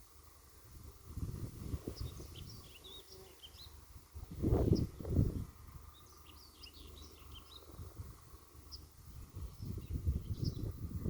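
Wind buffeting the microphone in gusts, strongest about halfway through and again near the end, with small songbirds chirping and twittering throughout in a field.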